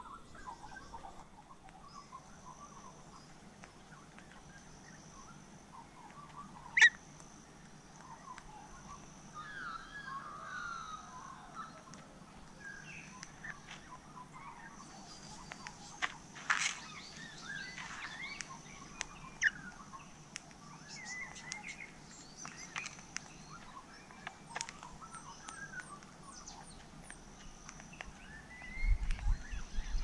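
Assorted wild birds chirping and calling in a garden. A sharp click about seven seconds in is the loudest sound, with another strong burst of noise a little past the middle.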